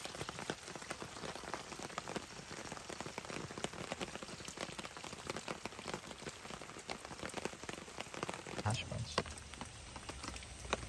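Rain falling on the forest and on the tarp overhead: a steady hiss full of separate drop ticks. A low steady hum joins near the end.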